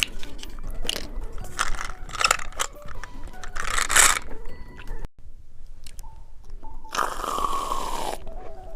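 Close-miked crunching and biting of candy: a run of sharp crunches in the first few seconds with a louder crunch about four seconds in, cut off abruptly about five seconds in. A second noisy burst with a falling tone comes about seven seconds in.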